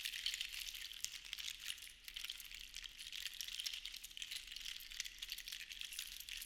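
Seashells rattling against one another in a continuous dense clatter of fine clicks, easing briefly about two seconds in and then picking up again.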